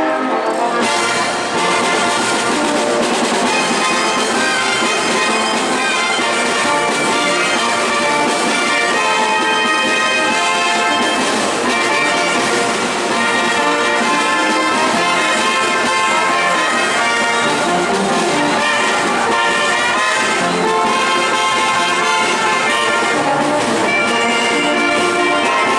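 Brass band playing a marinera norteña, with trumpets and trombones carrying the tune.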